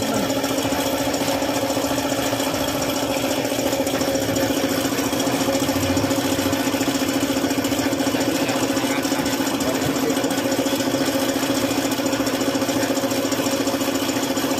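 An engine running steadily at idle, an even hum that does not change.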